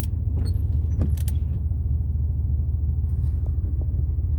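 Strong wind buffeting the microphone: a steady low rumble, with a few faint clicks in the first second and a half.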